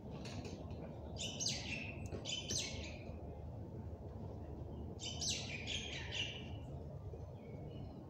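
Small birds chirping in two short bouts of quick, harsh chirps, one about a second in and one about five seconds in, over a steady low background rumble.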